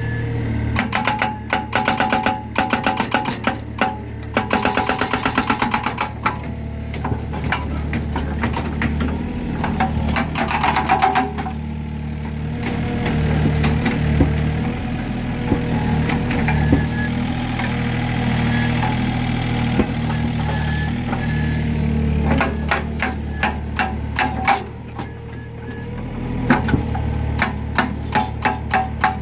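Mini excavator's hydraulic breaker hammering concrete in rapid repeated blows, in two spells: one over the first several seconds and another through the last several. The excavator's engine runs steadily underneath and in between.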